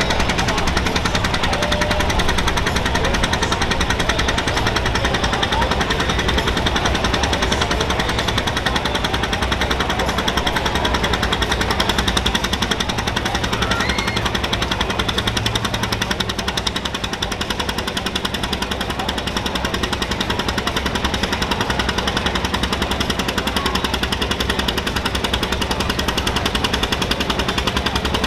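John Deere 730's two-cylinder engine running hard under load on the pulling track, a fast, even train of firing pulses that dips slightly in level about two-thirds of the way through.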